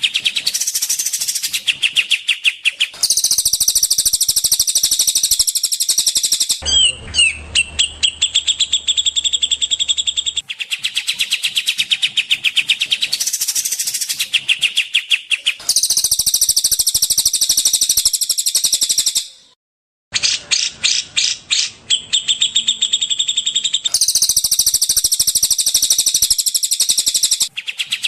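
Looped songbird-training recording of rapid, high-pitched bird trills and chattering calls. It is cut into blocks a few seconds long that switch abruptly from one pattern to another, with a short break just before the 20-second mark.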